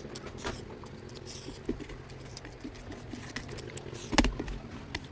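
Close-miked eating: wet chewing and lip smacking, many short clicks, with one louder knock about four seconds in.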